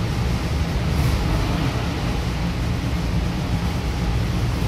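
Steady cabin ride noise inside a Goninan K-set double-deck electric train car in motion: a constant low rumble of wheels on track with a fainter hiss over it.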